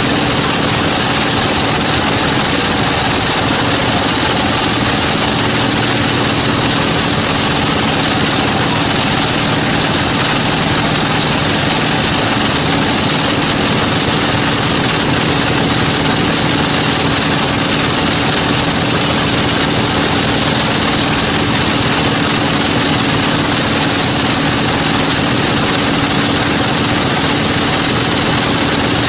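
Sawmill machinery running steadily: a constant engine-like hum with a wide hiss over it, unchanging throughout.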